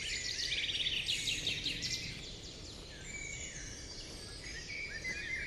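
Several birds chirping and calling, with rapid trills crowding together in the first two seconds, then scattered chirps.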